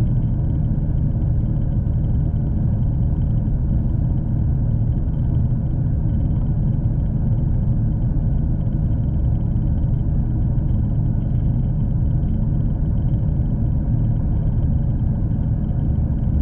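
Steady low rumble of a V/Line passenger train under way, heard from inside the carriage.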